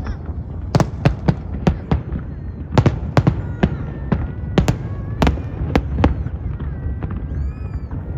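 Aerial fireworks bursting: a dozen or so sharp bangs at irregular intervals over a continuous low rumble.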